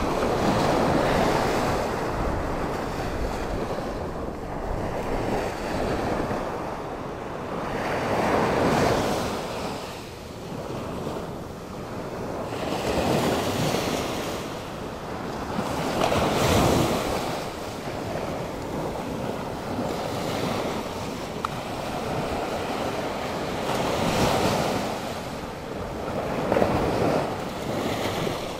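Atlantic Ocean surf breaking and washing in repeated swells every few seconds, with wind buffeting the microphone.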